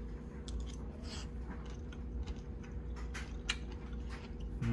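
Soft chewing and a few scattered light clicks of utensils as a piece of grilled octopus is tasted, over a steady low hum.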